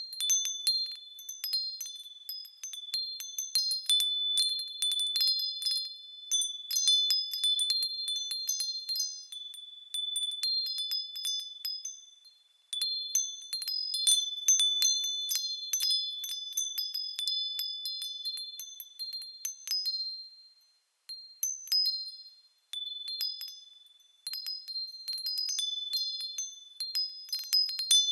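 Small high-pitched bells swinging and striking irregularly, their clear tones ringing on and overlapping like wind chimes. The ringing briefly dies away a little before halfway and twice more around two-thirds of the way through.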